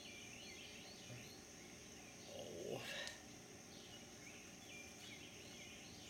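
Faint songbirds singing outdoors: short chirping phrases repeated again and again, with one brief louder sound that swells and fades about halfway through.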